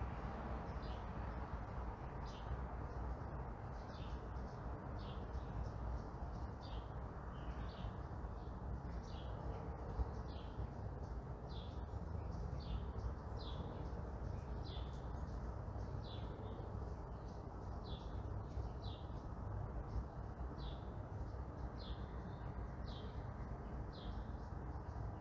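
A single bird repeating one short falling chirp, just over once a second, over a steady low background rumble of distant traffic.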